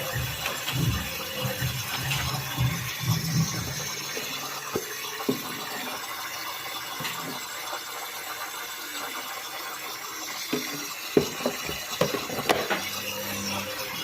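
Thomson washing machine partway through a wash: water sloshing in the drum while the motor turns it in spells, with a low hum for the first few seconds, a quieter pause, then a few knocks and the hum again near the end.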